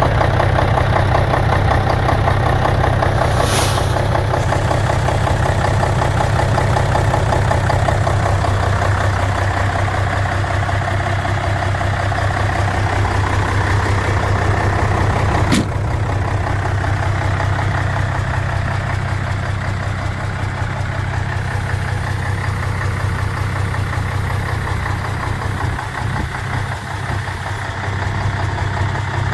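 Mercedes-Benz SK 1831 truck's V8 diesel engine idling steadily. There is a short hiss about three and a half seconds in and a single sharp click about halfway through.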